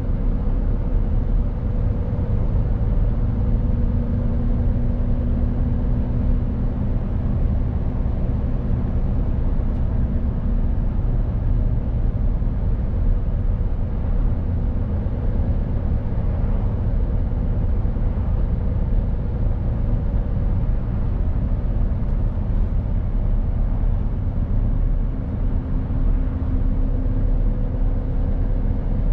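Mercedes Actros truck driving at a steady pace: continuous diesel engine and road noise, a low rumble with a faint steady hum.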